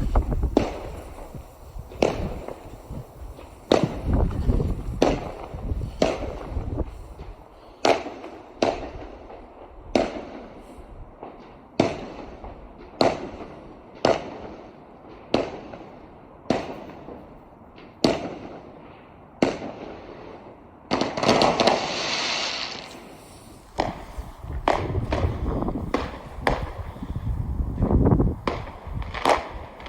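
Fireworks exploding: a long run of sharp bangs at irregular intervals, about one or two a second, with a couple of seconds of dense hissing crackle about two-thirds of the way through.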